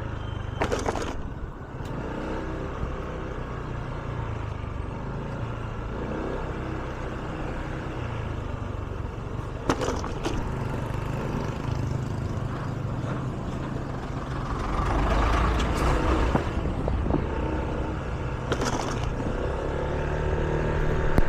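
A Honda scooter's small engine running steadily under way, with road noise and a few brief knocks.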